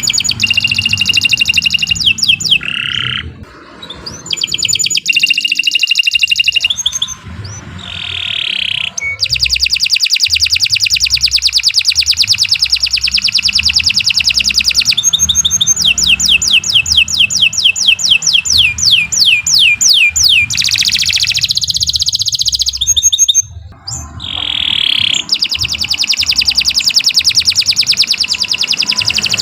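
Domestic canary singing a long song of fast repeated trills, broken by a few short pauses between phrases. A slower run of descending notes, about three a second, comes about halfway through.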